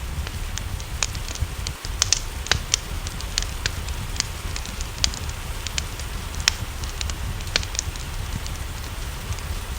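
Wood fire crackling in a fireplace, with irregular snaps and pops over a steady low rumble, mixed with a steady hiss of rain. A quick cluster of louder pops comes about two seconds in.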